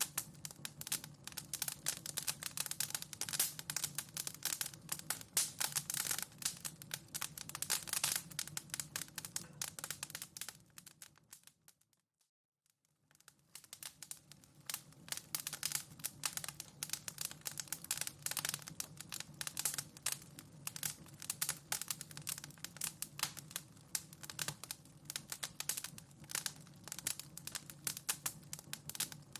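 Wood fire in a fireplace crackling and popping in dense, irregular snaps. About eleven seconds in, the crackling fades out to silence for a second or so, then fades back in.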